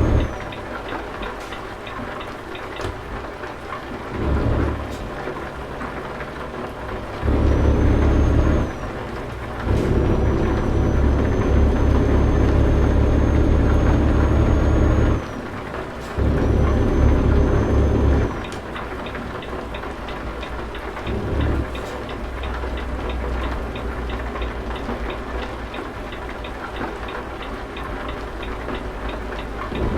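Truck engine running with a steady road drone. Three times it swells into a much louder low rumble lasting a few seconds, each time with a thin high whine over it that drops away as the rumble ends.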